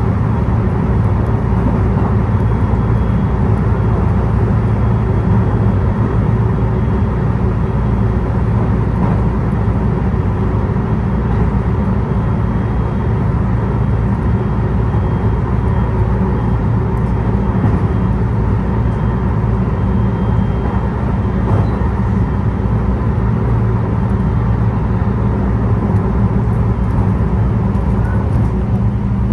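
Steady drone of a road vehicle being driven at an even pace: engine hum and road noise with no change in pitch or level.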